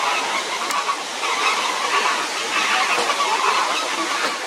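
Steady rushing of a large waterfall.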